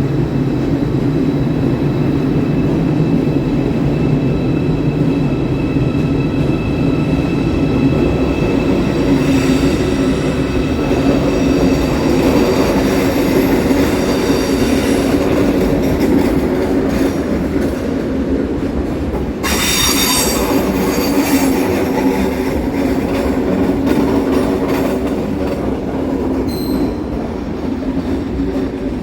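Train running along the platform with a steady heavy rumble. Its wheels squeal thinly through the middle, then give a sharper, brighter squeal about twenty seconds in. A short high beep sounds near the end.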